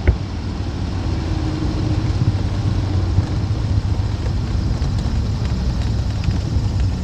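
Cessna 310's twin piston engines running steadily with airflow noise, a continuous low drone. A short click sounds at the very start.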